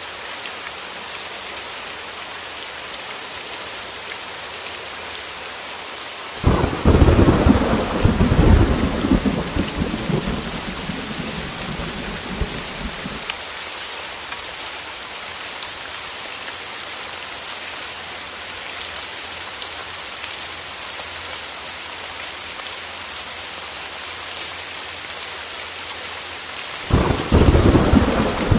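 Heavy rain falling steadily, with two claps of thunder: a loud rumble that breaks about six seconds in and dies away over several seconds, and another that begins near the end.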